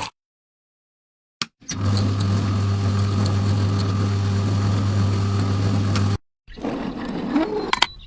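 A motor running with a steady low hum for about four seconds. It starts a couple of seconds in, after a silence and a single click, and cuts off abruptly.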